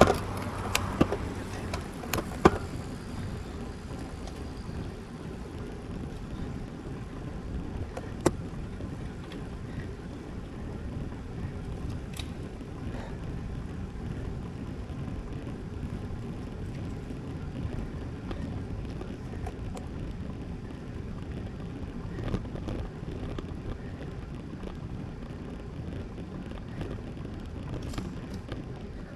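Steady low rumble of wind and tyre noise from a road bike being ridden, with a few sharp clicks scattered through.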